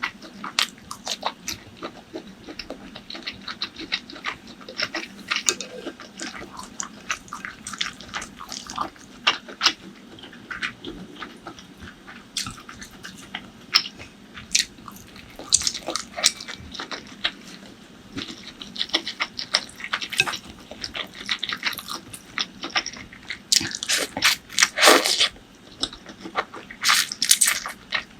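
Close-miked eating sounds: wet chewing and biting with many short, irregular smacks and clicks, louder for a few seconds near the end.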